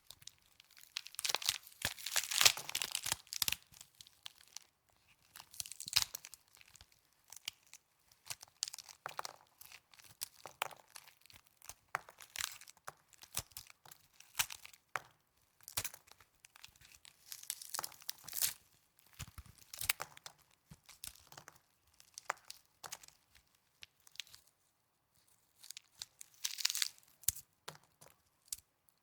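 Snow being crunched and squeezed close to the microphone in irregular bursts of crackling crunches, with short quiet gaps between them.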